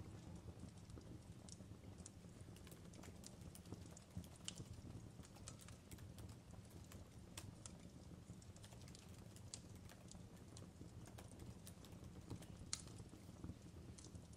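Wood fire crackling faintly: irregular sharp snaps and pops over a low steady rumble.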